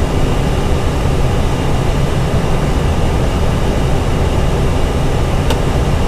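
Steady cockpit noise of an Airbus A320 in descent: airflow and air-conditioning rush, heaviest in the low range, with faint steady tones over it. A single faint click near the end.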